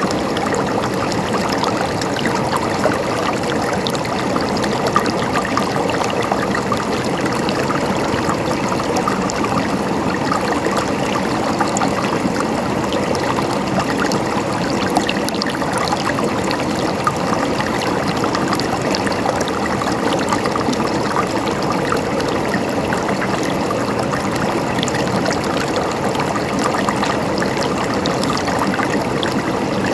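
Flowing stream water gurgling steadily, a continuous even burble with many tiny splashes.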